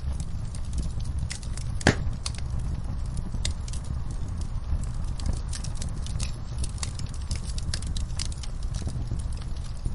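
Wood fire in a fireplace burning steadily with a low rumble and scattered sharp crackles, one louder pop about two seconds in.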